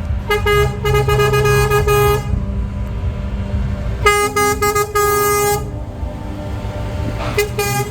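Truck air horns sounding over the low rumble of passing diesel trucks: a run of quick stuttering toots at the start, one longer blast about four seconds in, and more short toots near the end.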